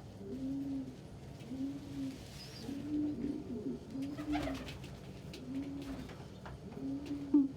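Domestic pigeons cooing: a steady series of low, arched coos, about one a second, with a few faint clicks in between.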